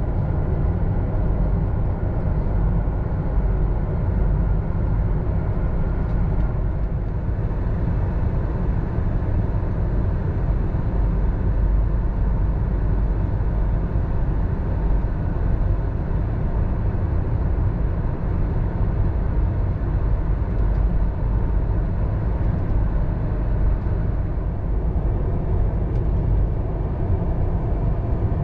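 Belgian Railways Class 96 (AM96) electric multiple unit running along the line, heard from inside the carriage: a steady low rumble of wheels and running gear on the track.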